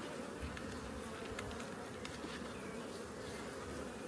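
A colony of honeybees buzzing steadily around an open hive: a continuous, even drone, with a few faint clicks.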